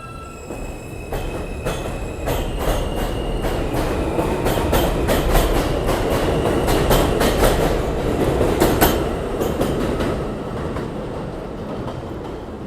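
New York City subway train running through a station, its wheels clicking rapidly over the rail joints with a rumble that builds to a peak about midway and then fades. A faint high whine or squeal sounds during the first few seconds.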